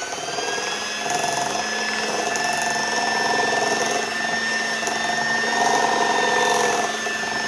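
Electric hand mixer running on low speed with a steady motor whine, its beaters churning powdered sugar into a cream cheese and butter frosting.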